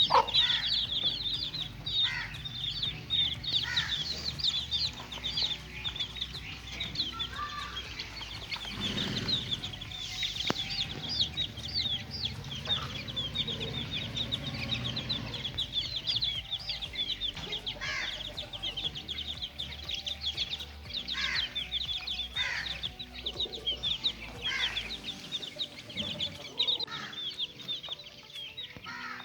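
Many young chicks peeping at once: a continuous stream of short, high chirps overlapping one another, with occasional lower calls among them.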